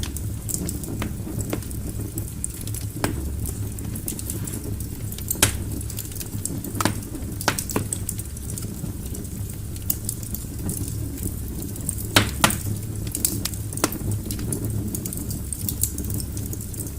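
Wood fire burning in a fireplace, a steady low rumble of flames with irregular crackles and sharp pops from the burning logs.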